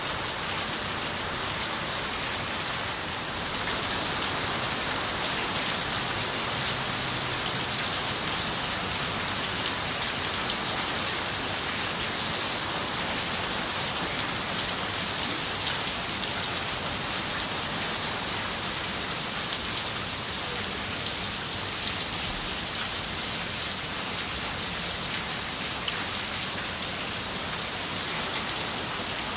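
Steady rain on a window, an even hiss with scattered drops ticking; it gets slightly heavier about four seconds in.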